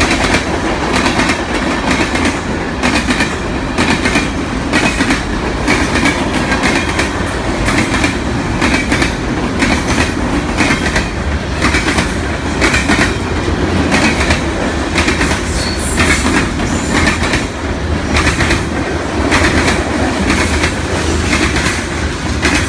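Freight cars of a long CSX train rolling past at close range: a steady rumble, with the wheels clicking over rail joints and an intermittent high squeal from the wheels.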